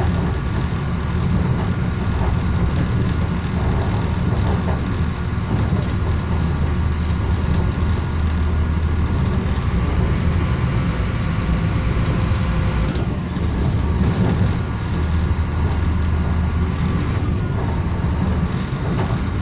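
Passenger train of Serbian Railways running along the line, heard from inside the carriage: a steady low rumble with a hiss of running noise above it.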